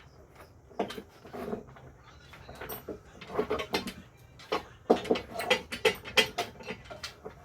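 Irregular wooden knocks and clatter as wooden boards are handled and set against one another, growing busier and louder about halfway through.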